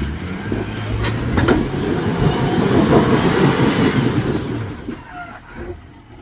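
Off-road 4x4 engine revving hard under load as the vehicle tries to climb a rock ledge, with the tires scrabbling and grinding over rock. It swells about a second in, is loudest around three seconds, and dies down near the end.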